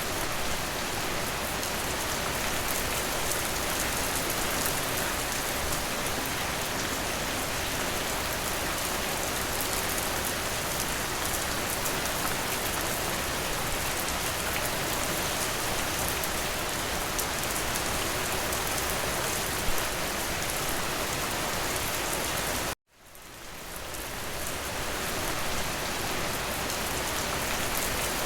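Steady rain falling, a dense even patter of drops. About 23 seconds in it cuts out abruptly for a moment and fades back in.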